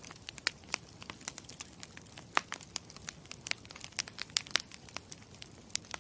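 Campfire crackling: irregular sharp pops and snaps over a low, steady hiss of burning wood.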